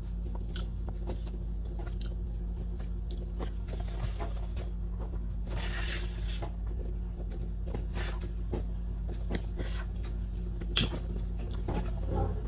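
A person eating soft boiled sweet potato close to the microphone: scattered wet mouth clicks and smacks, with a few short breathy hisses, over a steady low hum.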